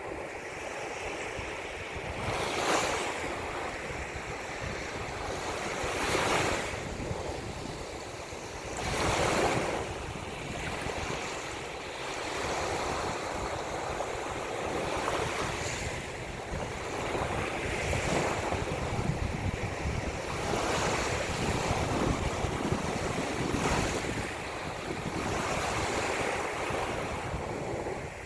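Ocean waves washing in and breaking, swelling every few seconds, with wind rumbling on the microphone.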